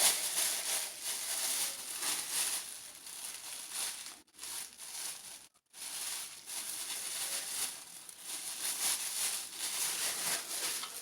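Packaging crinkling and rustling irregularly as a mug is unwrapped and handled. The sound cuts out briefly twice near the middle.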